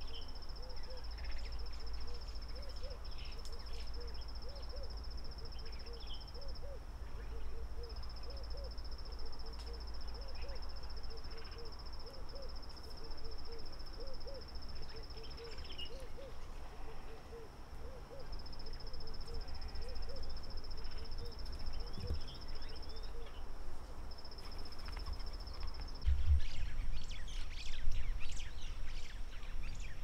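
A bird's soft low hoot, repeated about twice a second for most of the stretch, over a steady high insect trill that breaks off now and then and a low background rumble. Near the end the hoots stop and a louder rustling takes over.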